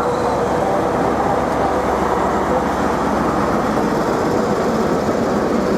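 A train at a station platform, a loud, steady running noise with no clear start or stop.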